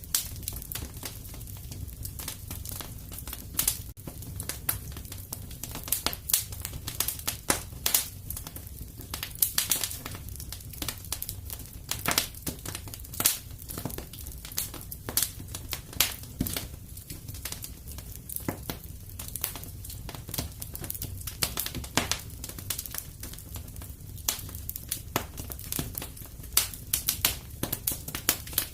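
Wood fire crackling and popping in a fireplace: irregular sharp snaps over a steady low rumble of flames.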